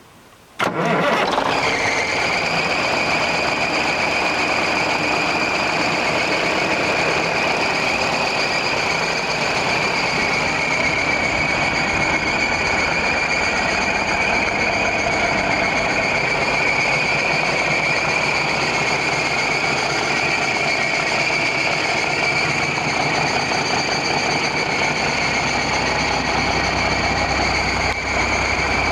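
1979 Ford L9000 grain truck's engine coming in about a second in and then running steadily at idle, with a steady high-pitched whine over the engine noise.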